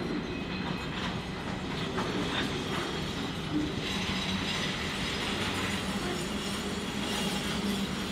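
A train running on the rails at a steady level, with a few wheel clicks over rail joints in the first few seconds.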